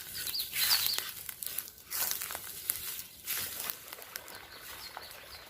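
Crunching and rustling in the trail-side undergrowth in uneven bursts, fading toward the end, with a few faint high bird chirps.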